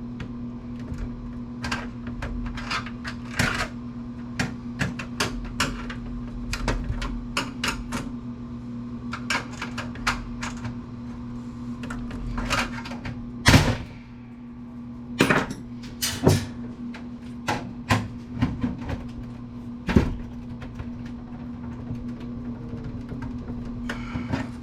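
Irregular clicks, taps and knocks of hands and tools working at a computer case part that two small catches hold in place, as it is pried and does not come free. A few knocks are louder, the loudest about halfway through. A steady low hum runs underneath.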